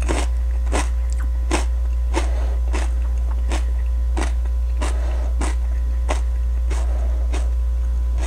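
A person chewing a bite of raw, ripe Candy Cane pepper, a crisp crunch about one and a half times a second, over a steady low hum.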